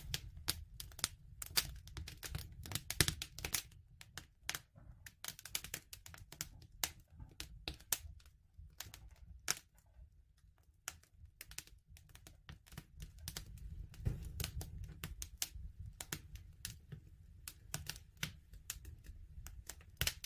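Campfire crackling: irregular sharp pops and snaps over a steady low rumble from the burning wood, thinning out for a few seconds about halfway.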